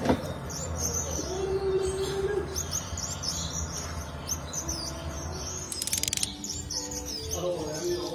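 Birds chirping: many short, quick chirps one after another over a low steady hum.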